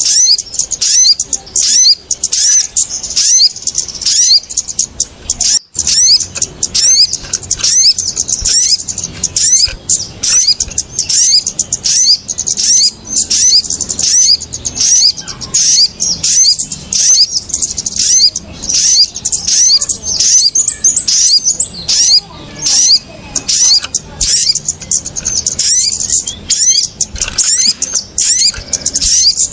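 Bird-lure recording (suara pikat) of small birds, the kemade and the sogon, calling in a busy, noisy chatter: a quick run of sharp, high chirps, several a second, without a break. It is the kind of excited calling meant to draw small birds down to lime sticks.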